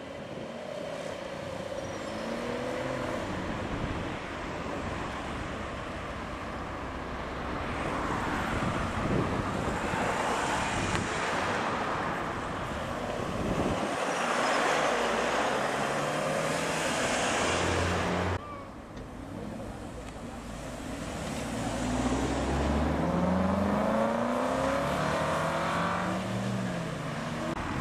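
Performance car engines revving and accelerating away, with exhaust noise swelling and fading as cars pass. Near the end, one engine climbs in pitch, drops back and climbs again as it pulls through the gears.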